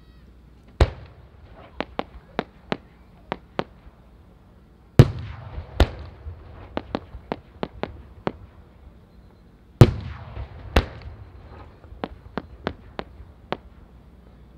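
Aerial firework shells (5-go, about 15 cm) bursting: three loud bangs about five seconds apart, each followed by a scatter of quieter sharp cracks over the next few seconds.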